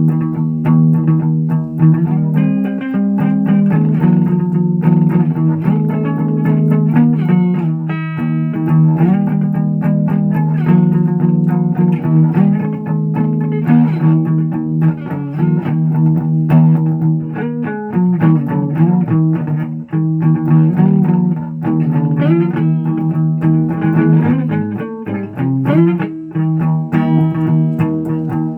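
Guitar played through effects with some distortion: a continuous run of held notes and changing chords.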